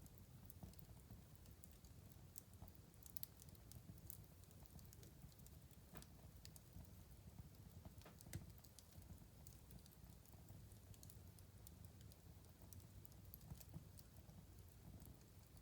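Faint wood fire crackling in a fireplace: irregular small pops and snaps over a low steady rumble, with a couple of sharper pops about six and eight seconds in.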